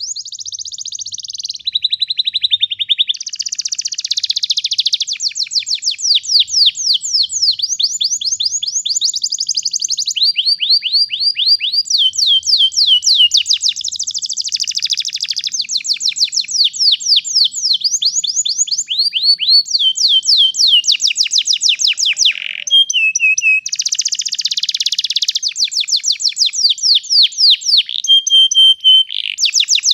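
Domestic canary singing a long, unbroken rolling song: fast trills of rapidly repeated notes, switching to a new phrase every second or two.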